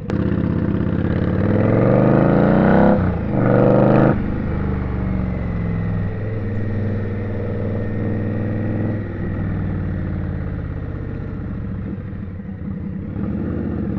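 Indian Scout's V-twin engine accelerating, rising in pitch over about three seconds with two quick upshifts, then running steadily at cruising speed.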